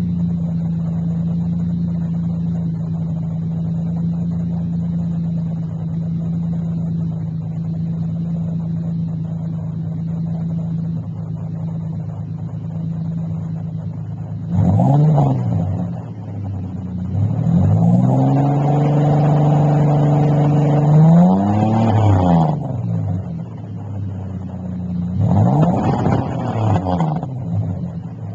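Ford Ranger's 4.0-litre V6 idling steadily, then revved three times: a short blip about halfway, a longer rev held for several seconds and let fall, and another short blip near the end.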